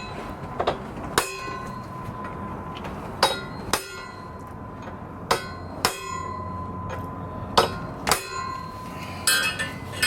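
Metal-on-metal hammer taps, mostly in pairs about every two seconds, each with a short ring over a steady background noise: a half-out pin in the boat's steering gear being knocked back in.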